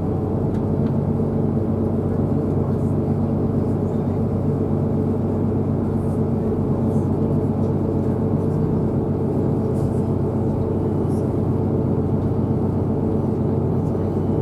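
Diesel multiple unit's underfloor engine running steadily with an even low hum, heard from on board.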